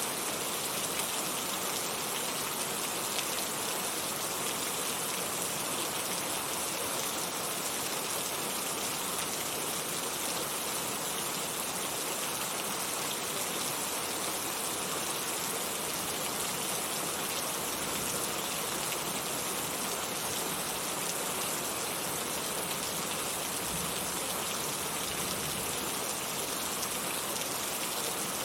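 Heavy rain falling steadily, an even hiss of many drops on hard surfaces with no thunder or other events.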